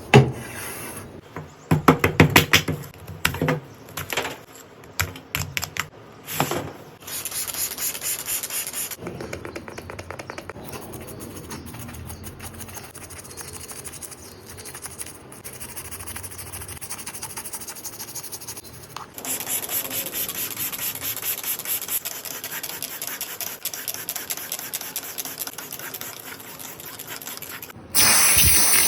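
Hands working on a small plastic toy car: a series of knocks and clicks, then long stretches of rhythmic scrubbing and brushing, and a short loud hiss near the end.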